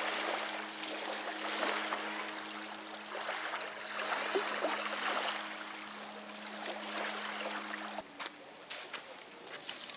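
Crinkly rustling of nylon sleeping-bag and quilt fabric being handled, over a steady low hum that cuts off suddenly about eight seconds in; a few sharp clicks follow.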